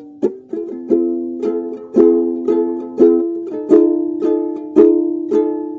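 Ukulele strummed in chords, about two strums a second, each ringing out and fading, with a change of chord about three and a half seconds in.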